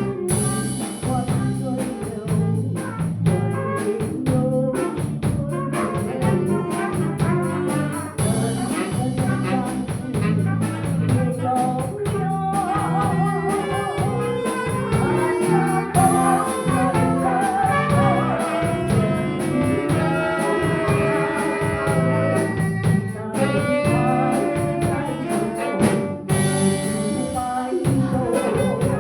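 Music from a group rehearsal: a melody over a steady beat, running continuously.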